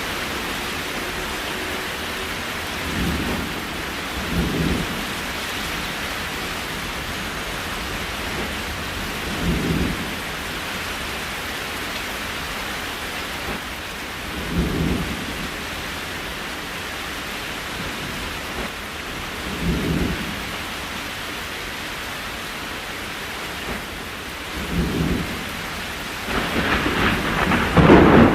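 Steady rain falling, with short low rumbles recurring about every five seconds. Near the end the sound swells louder and fuller.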